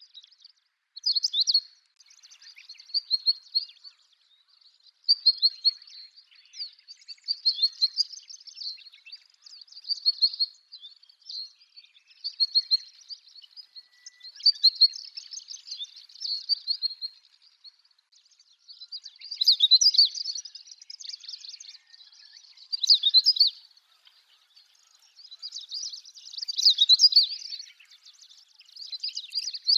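Long-tailed rosefinch singing: high, twittering phrases of one to three seconds, repeated every few seconds.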